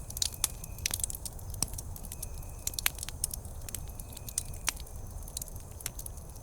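Wood campfire crackling: irregular sharp pops and snaps, a few a second, over a steady low rumble of the burning fire.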